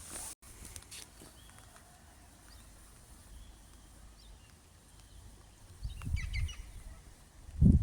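Quiet outdoor ambience with faint, short bird chirps. About six seconds in, and louder near the end, low rumbling buffets hit the microphone.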